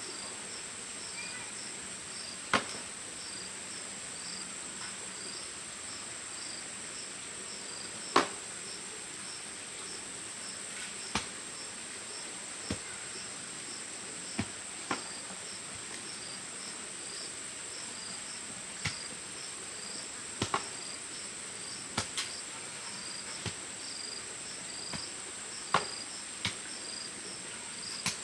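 Crickets trilling steadily, with a second chirping call repeating about twice a second. About fifteen sharp knocks or taps fall at irregular intervals over it, several seconds apart at times and in quick pairs at others.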